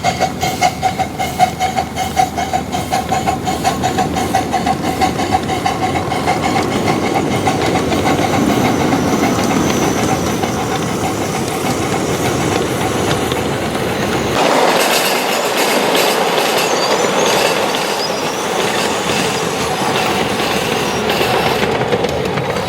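Train running along the track with a clickety-clack of wheels over the rails and a steady whine. It pulses at about two or three beats a second at first, then changes about two-thirds of the way through to a rougher, more even rattle.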